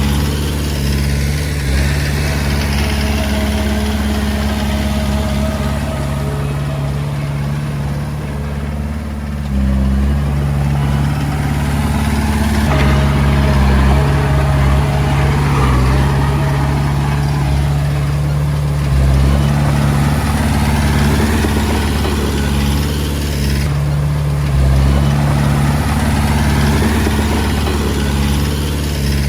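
Diesel engine of a small Komatsu D20A bulldozer running while it works, its note stepping up and down several times as the load changes. There is a brief dip about ten seconds in before it picks up again.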